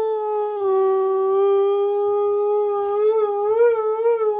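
A husky holding one long howl. Its pitch dips slightly about half a second in, then wavers up and down a few times near the end.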